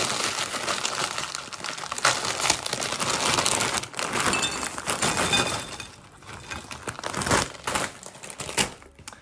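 A Doritos foil chip bag crinkling loudly as it is opened and handled, and tortilla chips tumbling out of it into a ceramic bowl. The crinkling thins out after about six seconds into a few separate clattering knocks.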